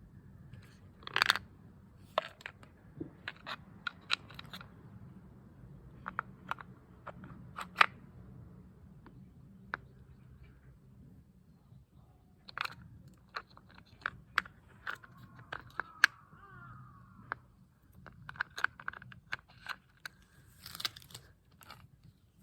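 Parts of a bicycle chain cleaner being handled and fitted together: irregular sharp clicks and knocks, several to a second at times, with light rustling in between.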